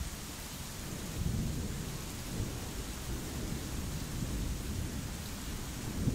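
Steady rain falling, an even hiss, over a low rumble that swells slightly about a second in and again near the end.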